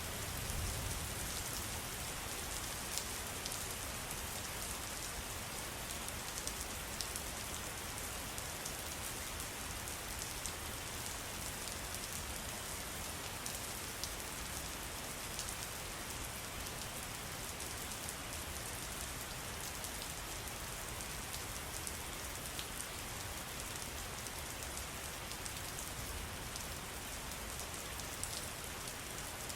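Water pattering steadily in many small drops: an even hiss with fine, scattered ticks of single drops.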